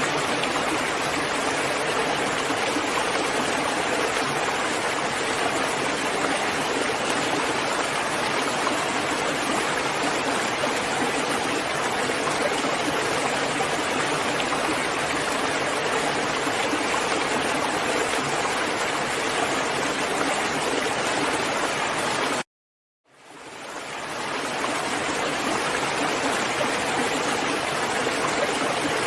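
Steady heavy rain falling as an even, continuous hiss. It cuts out suddenly about three-quarters of the way through, then fades back in within a couple of seconds.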